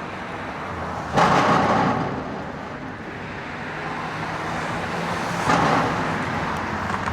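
Road traffic crossing the bridge: a steady traffic hum with two vehicles passing, each arriving with a sudden clunk as it runs over a steel plate in the bridge deck. The first comes about a second in and the second about five and a half seconds in.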